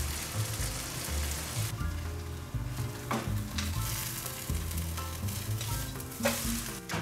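Shredded potato and black sesame galette frying in olive oil in a frying pan over medium heat, sizzling steadily. Two brief clicks, one about three seconds in and a louder one near the end.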